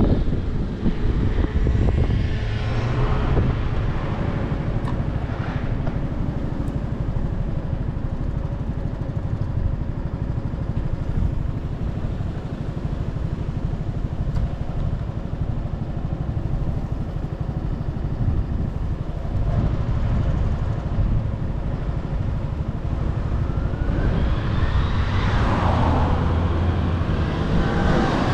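Motorcycle riding in road traffic, heard from the bike itself: a steady low rumble of engine and wind on the microphone, with engine pitch rising from about three-quarters of the way through as it accelerates.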